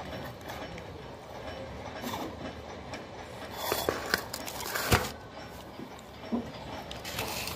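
A man chewing a mouthful of rice and curry close to the microphone over a steady background rumble, with a few sharp mouth clicks and smacks about four to five seconds in.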